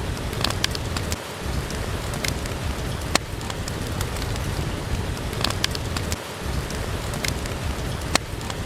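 Steady rain with a low rumble, over which a wood fire crackles with scattered sharp pops, a louder one about three seconds in and another near the end.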